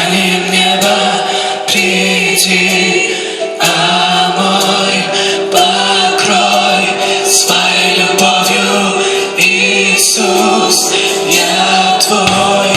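Church worship band and congregation singing a slow worship song, voices over sustained keyboard and a steady bass note.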